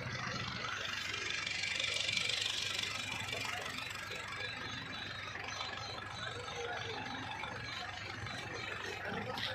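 Tractor diesel engine running steadily, with faint voices in the background.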